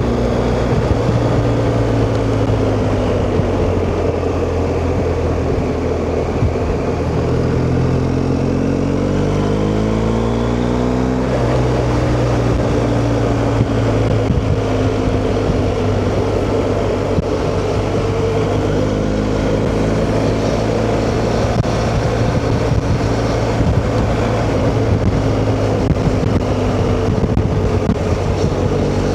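BMW R1250GS boxer-twin motorcycle engine running under way, with a rush of wind noise. Its pitch climbs steadily and drops suddenly about eleven seconds in at a gear change, then climbs again later on.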